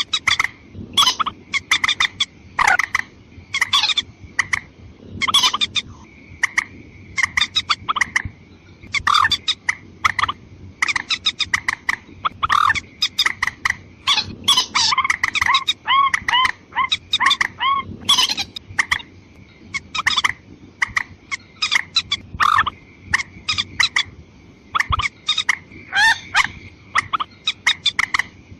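Watercock (mandar ayam-ayaman) calls, female and male, used as a lure recording: quick series of clucking, popping notes in bursts every second or two, over a faint steady high tone.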